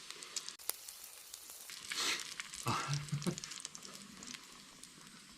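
Pork belly sizzling in its fat on a cast-iron cauldron-lid griddle: a steady hiss with fine crackles and spits, and louder flurries about two and three seconds in.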